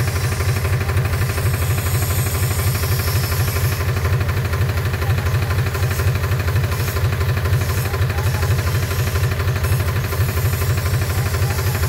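Powertrac 434 DS tractor's diesel engine running steadily with an even, rapid pulsing.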